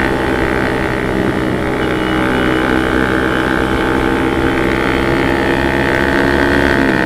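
Motorcycle engine running at a steady speed while riding, its note holding almost level, with wind rushing over the microphone.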